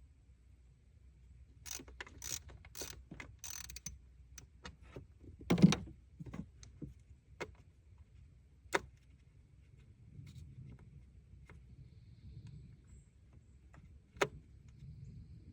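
Hand tools worked on the engine: a quick run of clicks about two to four seconds in, then scattered single knocks and clicks, the loudest a little over five seconds in.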